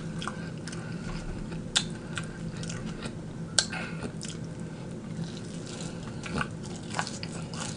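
A person chewing fried chicken wings close to the microphone, with a few sharp clicks, the clearest about two seconds in and again about three and a half seconds in.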